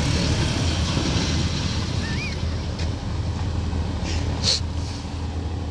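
Vehicle engines running with a steady low hum, mixed with wind rushing on the microphone. A short sharp click comes about four and a half seconds in.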